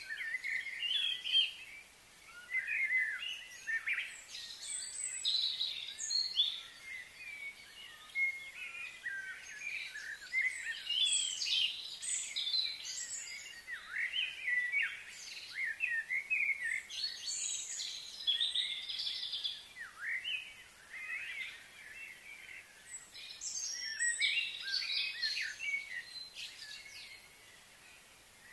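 Birds chirping in many quick, overlapping short calls, thinning out near the end, over a faint steady high hiss.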